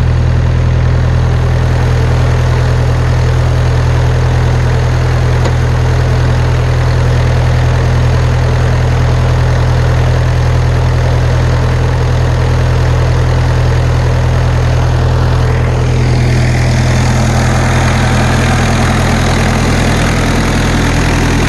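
1984 Ford Ranger's Perkins four-cylinder diesel idling steadily. About sixteen seconds in, the engine sound grows brighter and clearer.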